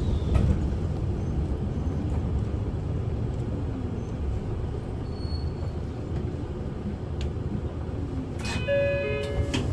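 Interior of a Kyoto City bus under way: steady low engine and road rumble. A brief high ringing tone sounds near the end.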